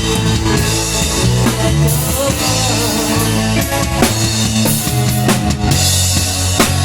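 Instrumental music with a drum kit playing a steady beat of bass drum, snare and rimshot under sustained low notes, as at a band rehearsal.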